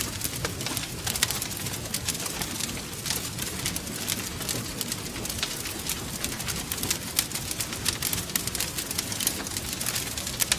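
Wood fire crackling steadily in a fireplace: many small irregular snaps and pops over a continuous low rumble of the flames.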